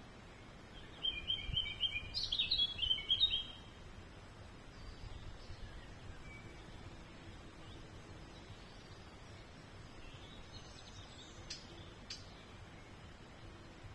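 A small songbird sings one rapid, twittering phrase of high notes about a second in, lasting about two seconds, followed later by a few faint chirps over steady outdoor background noise.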